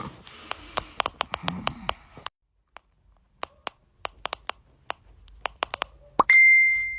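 A run of sharp camera-shutter clicks, irregularly spaced, with a short pause of near silence partway through. Near the end comes a loud, steady, high-pitched beep lasting under a second.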